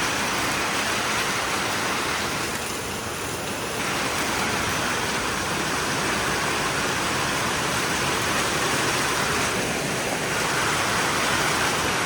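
Squall-line rain and wind making a steady rushing noise, easing slightly for about a second around three seconds in.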